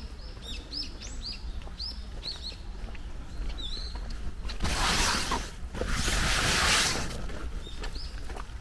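Small birds chirping in a quick run of short arching high calls. About halfway through come two loud rushing hisses, each about a second long, which drown out the birds.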